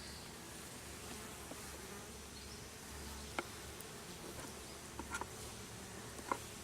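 Honey bees buzzing steadily around an opened hive, a calm colony rather than an agitated one. A few short sharp knocks from the wooden frames and boxes being handled come about three and a half seconds in, around five seconds, and near the end.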